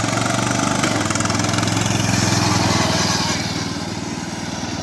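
Riding lawn mower's small engine running hard at speed, a steady engine note that swells as the mower comes close and eases off slightly in the second half.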